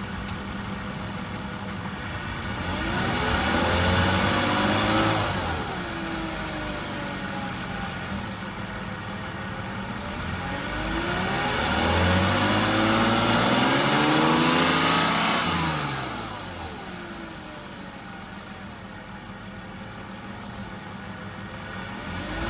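BMW E46 325i's 2.5-litre straight-six blipped up from idle twice, the second time longer, and settling back to idle each time. A whine rises and falls in pitch along with the revs; the owner is unsure whether this whine is normal.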